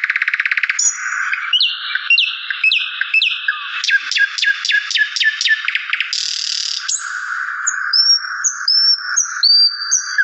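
Small songbirds singing and chirping: rapid trills, runs of quick downward-sliding chirps, and short whistled notes following one another without a break.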